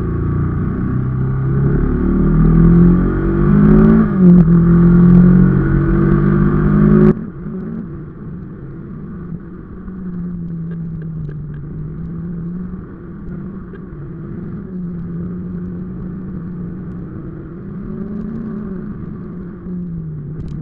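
Bajaj Pulsar NS 160's single-cylinder engine while riding, its pitch rising and falling with the throttle. About seven seconds in the sound cuts off abruptly to a quieter, steadier engine note.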